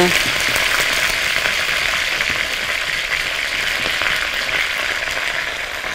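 Par-boiled chicken pieces sizzling as they fry in a hot pot, a steady hiss that slowly dies down.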